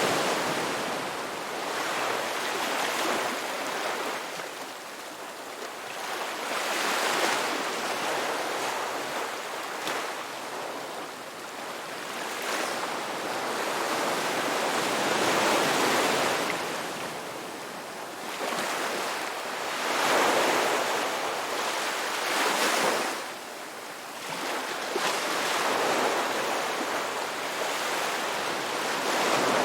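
Ocean surf: waves breaking and washing in one after another, the rush of water swelling and easing every few seconds.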